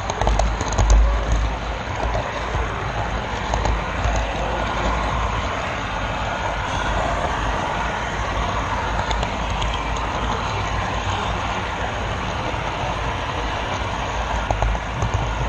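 Model train rolling along the track, heard close up from a camera car riding on the rails: a steady rumble of wheels on track.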